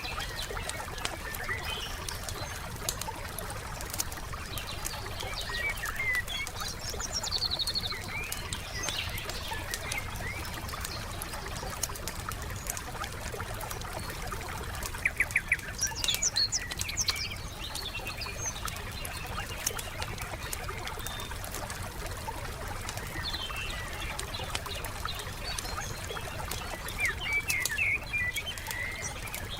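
Wood fire crackling with scattered sharp pops throughout, while songbirds chirp in short phrases, including a quick run of rapid notes about halfway through.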